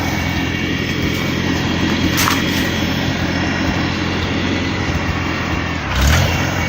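Small tractor engine running steadily while it pushes brush, with a brief sharp crack about two seconds in and a thump about six seconds in.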